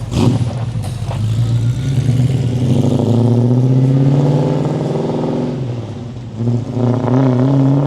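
Muscle car engine revving: it rises in pitch about two seconds in, holds, eases off, then revs up again near the end. A sharp knock comes right at the start.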